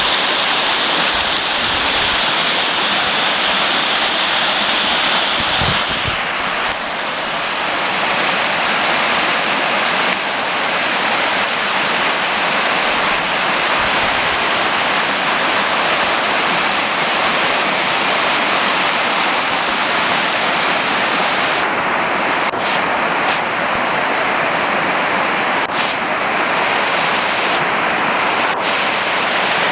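Waterfall: falling water making a steady, loud rush, its character shifting slightly about six seconds in.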